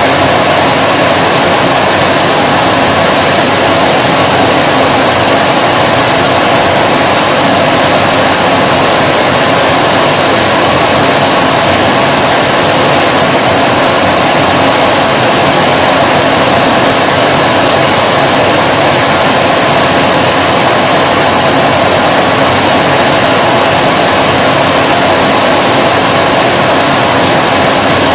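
Vacuum cleaner running steadily, a loud, unchanging whir of motor and rushing air that neither rises nor falls.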